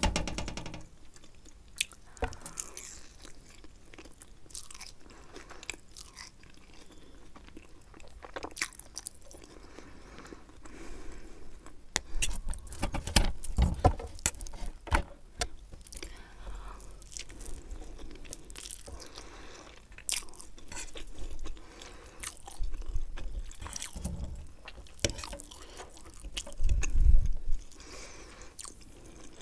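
Close-miked chewing of Maggi instant noodles: wet mouth clicks and smacks, coming in louder spells about halfway through and again near the end.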